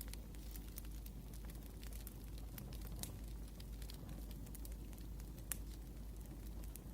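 Wood fire crackling: irregular sharp pops and snaps over a low steady rumble, the loudest pop a little past halfway.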